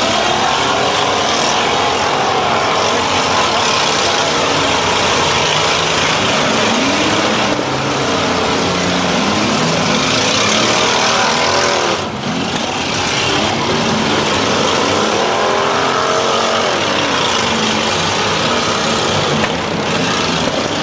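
Several demolition derby cars' engines revving together, their pitch rising and falling over a dense, steady din.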